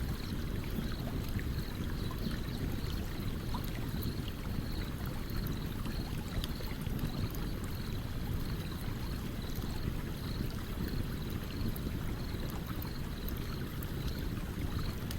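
Campfire crackling beside a flowing stream: a steady low rush of water with scattered small pops and snaps from the burning wood. A faint high chirp repeats about twice a second throughout.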